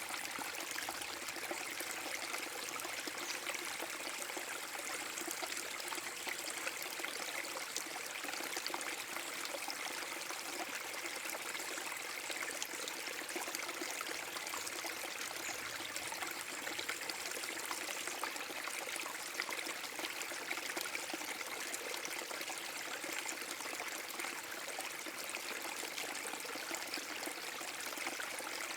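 Small waterfall on a forest brook, water pouring and splashing over the drop in a steady, unbroken rush.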